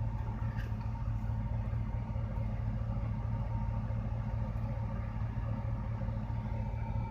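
A vehicle's engine idling steadily, heard from inside the cab as a low, even hum.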